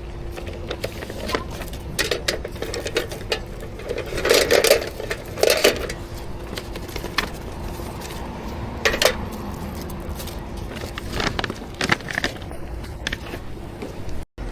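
Barista work sounds at a coffee counter: scattered clinks, clicks and knocks of cups, utensils and equipment, with a louder spell of clatter about four to six seconds in, over a steady machine hum.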